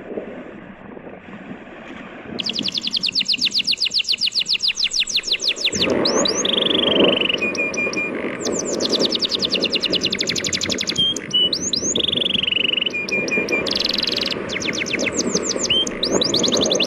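A songbird singing in fast trills of quick falling notes, about ten a second, broken by short whistled phrases, starting a couple of seconds in. Under it runs a steady wash of sea waves.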